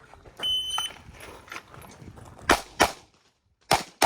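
Shot timer beeps once, about half a second in, then a 9mm Glock 19X pistol fires four shots in two quick pairs, the first pair about two and a half seconds in.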